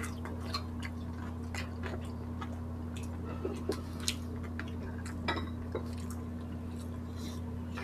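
Close-miked chewing of grilled pork belly and rice, with scattered short wet mouth clicks and smacks, over a steady low electrical hum.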